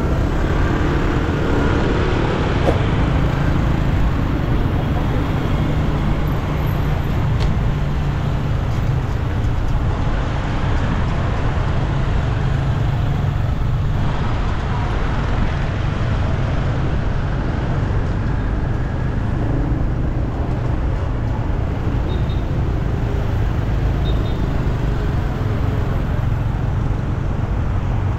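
Steady city road traffic noise: a continuous rumble of passing vehicles.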